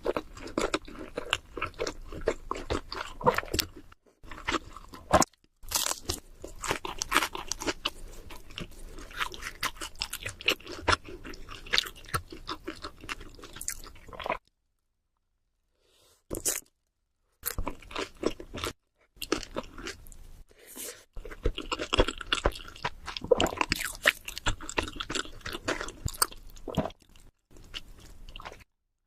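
Close-miked eating of cheese seafood pizza: crunchy bites into the crust and steady crackly chewing. The sound drops out completely for about two seconds midway and stops briefly several other times.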